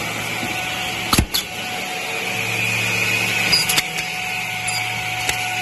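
Automatic edge banding machine running with a steady mechanical drone and hum, broken by a few sharp knocks, the loudest about a second in and two more near the middle.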